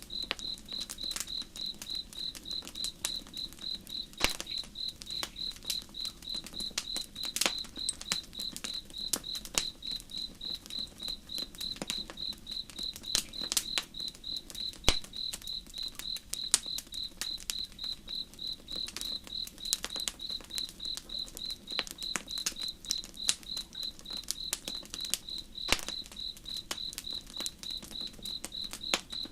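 Campfire crackling with irregular sharp pops, over insects chirping in a steady, even rhythm, with a low, soft flow of water underneath.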